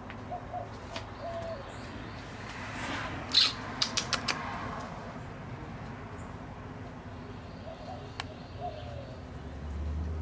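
Short cooing bird calls, a few near the start and more near the end, over a low steady hum. About three and a half seconds in comes a brief swell of noise with four or five sharp clicks in quick succession, the loudest sound here.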